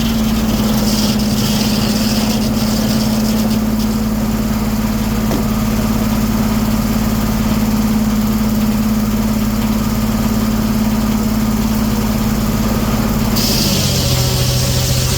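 Engine powering a 1907 American sawmill, running steadily at a fixed speed while it saws a cherry log. Near the end its pitch drops noticeably and a higher hiss comes up.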